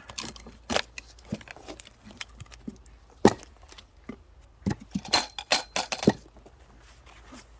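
Axe work on a log of firewood: separate sharp knocks and clacks of steel on wood, the loudest about three seconds in, then a quick run of lighter knocks and clinks around five to six seconds in.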